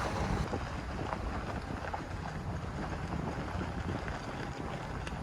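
Pickup truck driving slowly over a rough dirt track, its engine running as a steady low rumble, with wind noise on the microphone.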